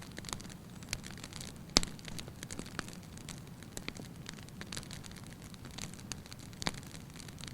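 Wood fire in a fireplace crackling, with irregular sharp pops. The loudest pop comes just under two seconds in and another near the end, over a low steady noise of burning.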